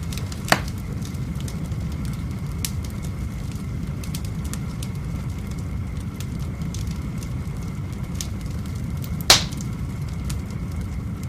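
Wood fire burning in a fireplace: a steady low rush of flame with scattered small crackles, and two sharp loud pops, one about half a second in and one near the end.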